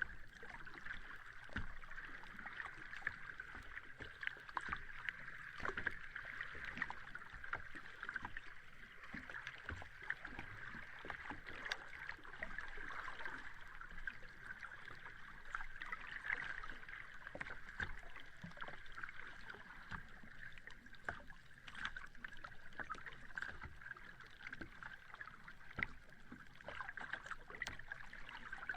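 Sea water at the shore: a steady wash of water, full of many small crackles and splashes, with no big wave breaks standing out.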